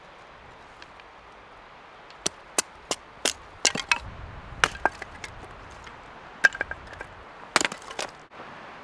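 A dozen or so sharp, short knocks and cracks at an irregular pace, starting about two seconds in, over a faint steady background.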